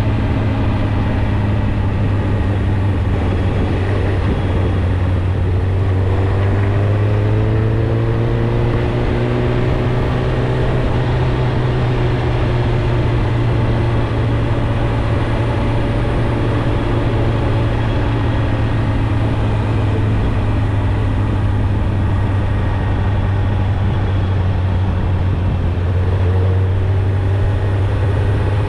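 Suzuki GSX-R1000 inline-four running through its stock exhaust at a steady cruise, the engine note climbing gently about a third of the way in, easing lower later, and rising again near the end.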